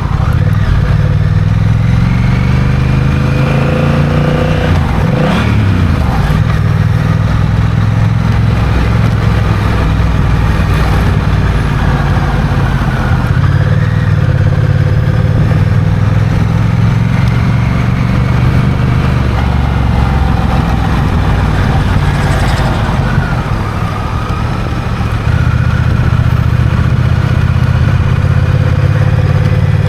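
Honda CMX1100 Rebel's 1,084 cc parallel-twin engine running under way, heard with road and wind noise. Its pitch rises and falls through the gears about four to six seconds in, and it eases off briefly near the two-thirds mark before pulling again.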